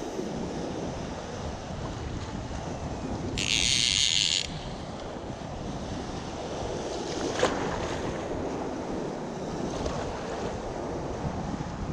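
Wind buffeting the microphone over a steady rush of water. A brief high hiss lasting about a second comes in about three and a half seconds in, and a single sharp click sounds past the middle.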